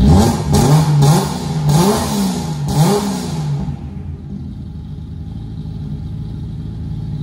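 Naturally aspirated Nissan RB26 straight-six in a 1974 Nissan Skyline, just started and blipped four times in quick succession, then settling into a steady idle.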